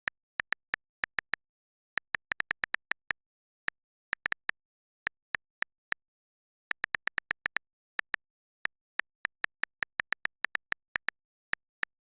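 A run of short, sharp clicks at irregular spacing, sometimes several in quick succession, with dead silence between them.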